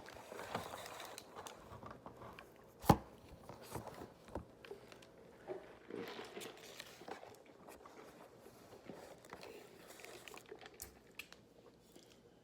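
Close-up eating sounds of a taco being bitten and chewed, with wrapper paper crinkling and small clicks. One sharp knock about three seconds in.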